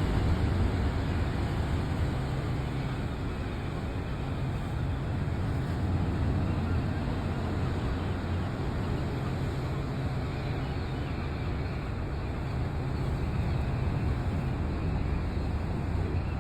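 Steady, unbroken rumbling noise of stormy wind and sea, heaviest in the low end.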